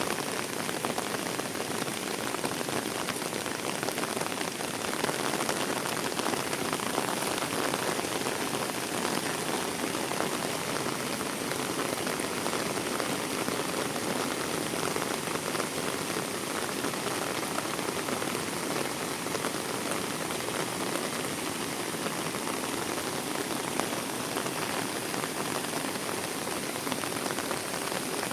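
Heavy rain falling steadily, a dense, even hiss of countless drops with no pauses or changes.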